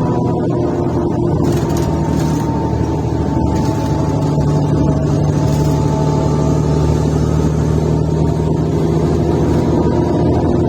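Mercedes-Benz O530 Citaro C1 Ü bus engine running under way, heard from inside the bus as a loud, steady drone: the exhaust is defective.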